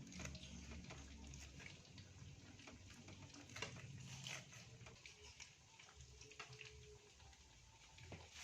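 Faint crackling and sizzling of food cooking in a frying pan on the stove, with irregular small pops.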